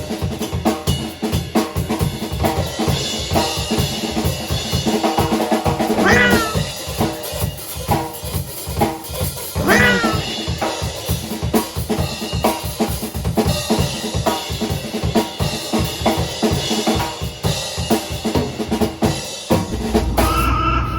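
A drum kit plays a steady beat with bass drum and cymbals over a tabby-and-white cat's meows of protest at having its claws clipped, with clear meows about six and ten seconds in. Near the end, a drawn-out meow rings on with echo added.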